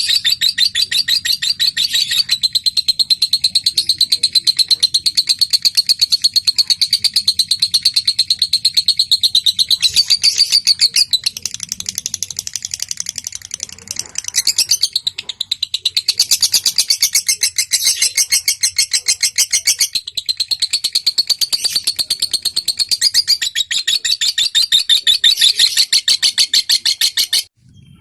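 Lovebird singing in long, very rapid, high-pitched chattering trills (the 'ngekek'), shifting pattern briefly a few times and stopping abruptly just before the end.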